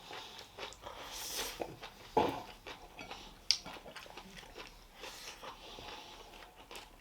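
A person chewing food close to the microphone, with irregular wet mouth clicks and smacks. There is a short hiss about a second in, and a few sharper clicks.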